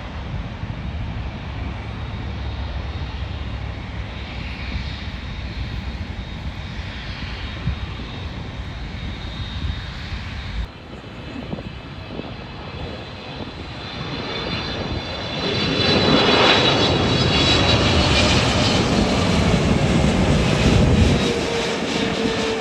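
Jet airliner passing close by: a steady rumble, a sudden drop about ten seconds in, then engine noise building to a loud peak with a high whine and a slowly falling tone, easing off near the end.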